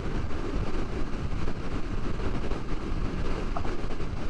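Motorcycle riding at road speed, with a steady rush of wind on the microphone over the engine and road noise.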